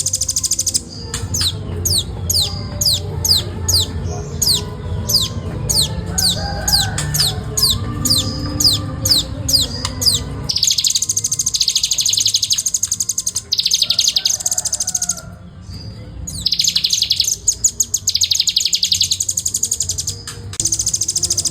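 Velvet-fronted nuthatch singing hard and without pause. It begins with a long run of quick falling whistled notes, about three a second. From about ten seconds in it switches to very fast, tightly packed trills in bursts of a few seconds each. A low rumble sits under the first half.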